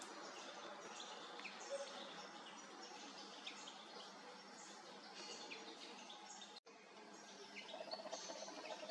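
Faint birds chirping now and then over a steady outdoor background hiss, with the sound dropping out for an instant about two-thirds of the way through.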